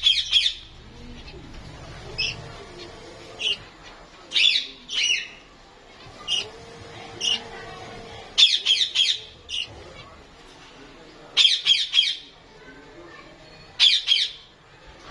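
Small birds, likely lovebirds, giving short, shrill, high-pitched calls in quick clusters every second or two. The loudest clusters come about two-thirds of the way through.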